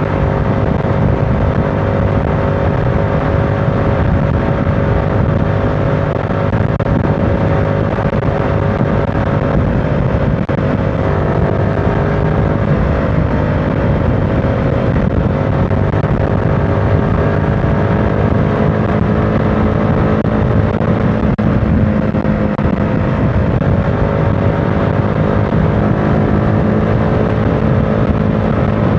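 Motorcycle engine running steadily under way, its pitch drifting slowly up and down, over a dense rumble of road noise.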